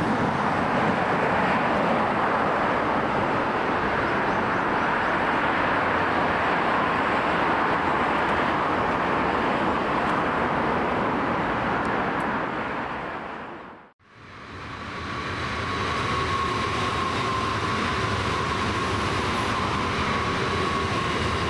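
Electric commuter trains running past on the Semboku Rapid Railway line. A steady rumble of wheels and motors fades out about fourteen seconds in. Then a Semboku 7000 series eight-car set (six cars plus two) passes, its running noise carrying a steady high whine.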